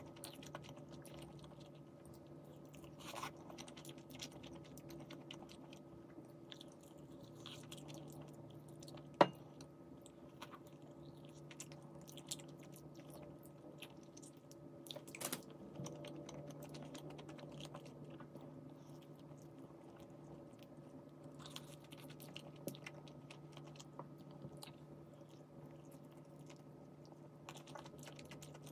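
A person eating quietly, chewing and biting with some crunch, with scattered small clicks and one sharper click about nine seconds in. A steady low hum runs underneath.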